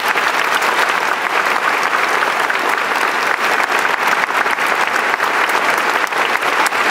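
A crowd applauding: a dense, steady round of clapping from many hands.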